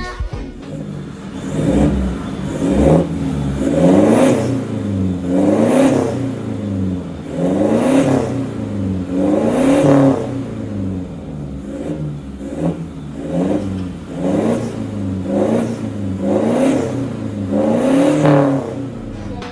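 Toyota Innova's 2GD four-cylinder turbodiesel revved repeatedly through an aftermarket FCK full exhaust system. Each rev rises and falls back toward idle, about one every one to two seconds.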